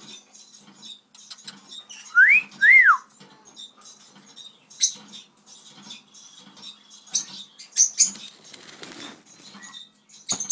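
Cockatiel whistling two short notes about two seconds in, each rising and then falling. Around them runs a crinkling, crackling rustle of the plastic chip bag as the bird moves about inside it, with a few sharper crackles later on.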